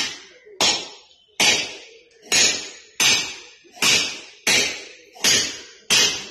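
Steady hammer blows on steel during rail thermite-welding work: nine hard strikes, about one every 0.8 seconds, each ringing briefly.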